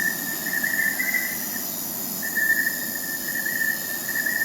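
Crickets chirping in a steady high trill that pauses briefly about one and a half seconds in, over a soft low rustle.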